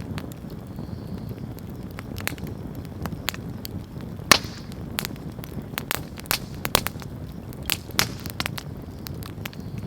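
Bonfire burning: irregular sharp crackles and pops over the low rustle of the flames, with one loud pop about four seconds in.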